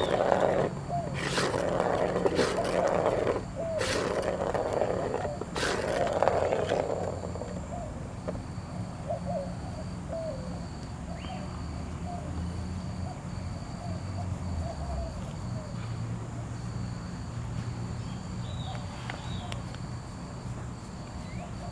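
House cat growling in four loud, rough bursts over the first seven seconds while it plays with a toy, with sharp clicks between; after that only faint, short sounds.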